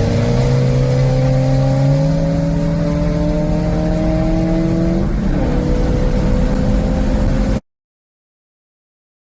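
Car engine accelerating, its pitch climbing steadily, then dropping sharply at a gear change about five seconds in. The sound cuts off suddenly about two and a half seconds later.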